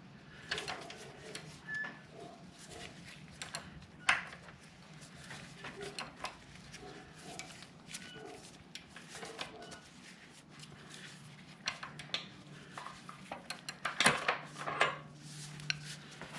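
Socket wrench and metal tools clicking and clinking irregularly as a bolt on the motorcycle's rear axle area is worked loose, over a faint steady low hum.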